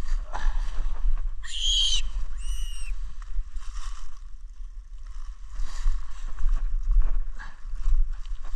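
A bird gives two short, harsh screeching calls, about one and a half and two and a half seconds in, with dry leaves rustling and wind rumbling on the microphone.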